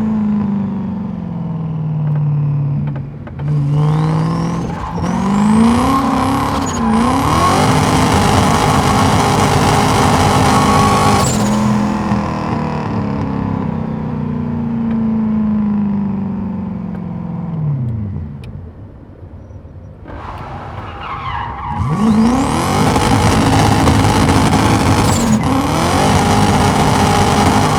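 Turbocharged BMW M62 V8 in a BMW E30, revving hard with its pitch climbing and dropping again and again, under loud tyre squeal while drifting. The engine eases off to a quieter lull about two-thirds of the way through, then revs up and squeals hard again.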